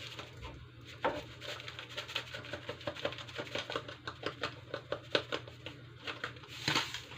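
A cooking utensil tapping and scraping against a pan while chicken is stirred, in quick irregular clicks, two to four a second, over a steady low hum.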